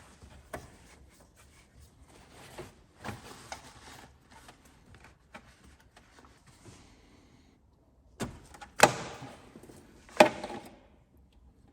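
Handling noises: rustling with scattered light clicks, then two sharp clacks about a second and a half apart, the loudest sounds, near the end.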